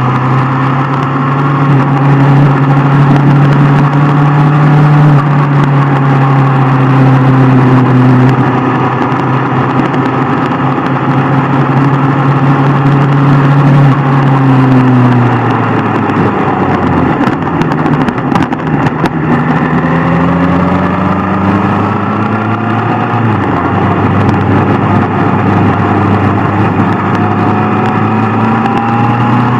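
Superbike engine heard while riding: it holds a steady pitch at cruising speed, drops as the throttle is closed about halfway through, then climbs steadily in pitch as the bike accelerates again.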